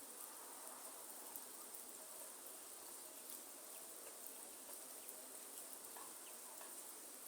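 Faint rainforest ambience: a steady high-pitched insect chorus over light rain, with scattered drops ticking.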